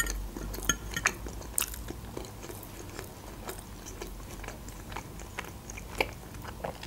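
Close-miked chewing of a chopped meat cutlet, quiet and wet, with occasional short sharp clicks.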